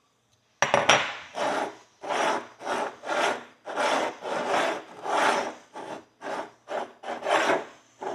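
Knife blade scraping grime out of an old horseshoe: about a dozen quick rasping strokes, roughly two a second, starting about half a second in.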